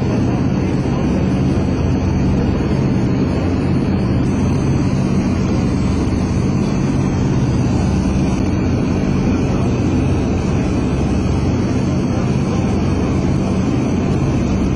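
Four-engined Lockheed EC-121K Super Constellation's Wright R-3350 radial engines and propellers running at a steady drone in flight.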